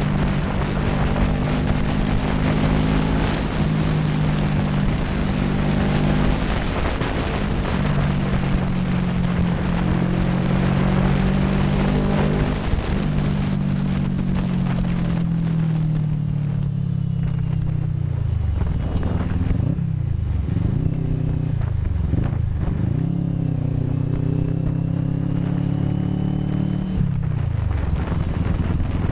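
CFMoto 400NK motorcycle's parallel-twin engine running under way, with rushing wind noise that is heavier in the first half. In the second half the engine note falls and climbs again several times as the bike slows and picks up speed.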